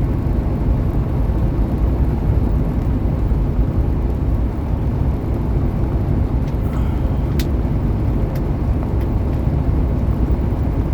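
Semi truck cab noise at highway speed: a steady, low drone of engine and road noise, with a few faint ticks in the second half.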